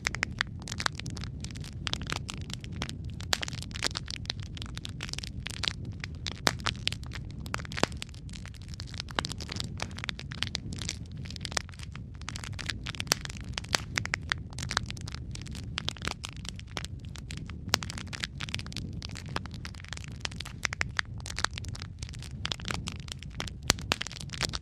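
Wood fire crackling: many sharp, irregular pops and snaps, some loud, over a steady low rumble of the burning fire.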